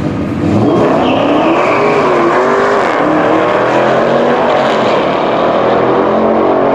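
Drag car's engine running hard at full throttle, coming in loud about half a second in, its pitch wavering up and down as it pulls.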